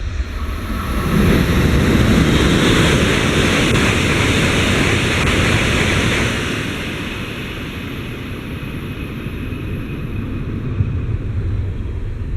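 Tohoku Shinkansen train passing through a station at speed without stopping. A rush of air and running noise builds quickly about a second in, holds at its loudest for about five seconds, then dies away to a lower rumble.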